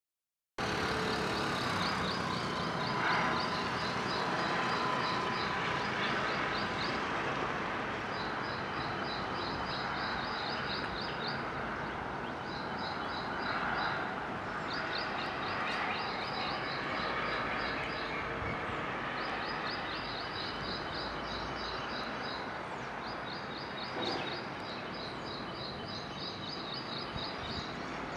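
Steady outdoor rumble and hiss with repeated bouts of rapid, high-pitched chirping trills, each bout lasting a few seconds.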